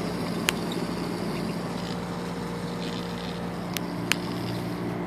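Worn wheel bearing on a 1995 Plymouth Voyager grinding steadily as the wheel turns, with a steady vehicle hum and a few sharp clicks; the bearing is shot.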